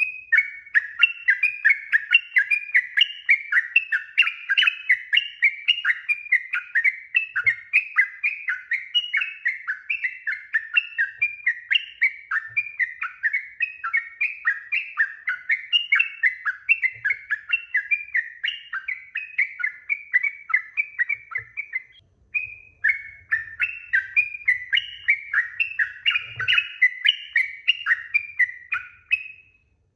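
Yellow-vented bulbul (trucuk) singing a long, continuous run of quick repeated bubbly notes, about two to three a second. There is a brief break about 22 seconds in, and the song stops shortly before the end.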